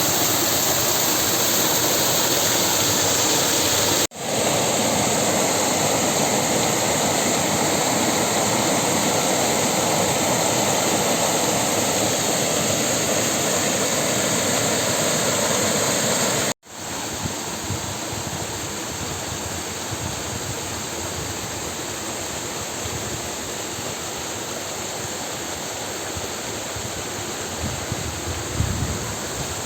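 Steady rush of water from a waterfall and river. It drops out briefly twice, about four seconds in and again past sixteen seconds, and is a little quieter after the second break. A few small knocks come near the end.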